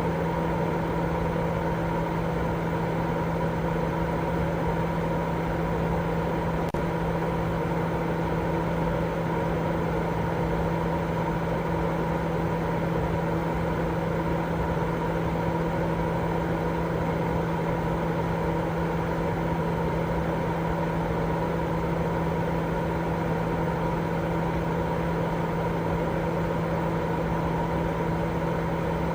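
Continuous baby-sleep white noise: an even, unchanging hiss with a steady low hum and a couple of faint constant tones running through it.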